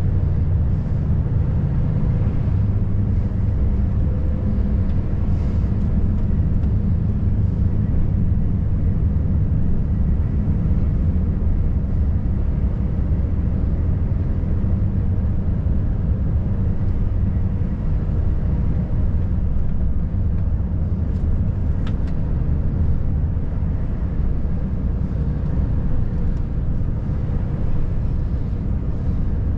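Volvo FH540 truck's 13-litre straight-six diesel pulling steadily on the road, a continuous low drone of engine and tyre noise.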